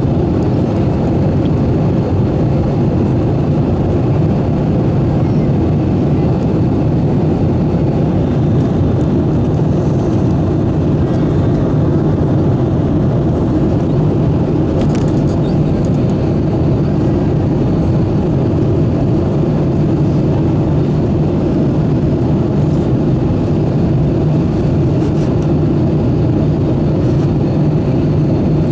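Steady cabin noise inside an Airbus A320-214: an even, low drone of its CFM56 engines and rushing airflow, holding level with no change.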